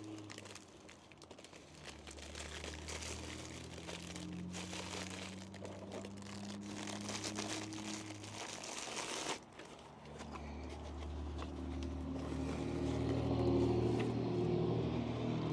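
Packaging being handled during an unboxing: plastic and paper crinkling and rustling, with a sudden stop about nine seconds in. A low steady hum runs underneath and grows louder toward the end.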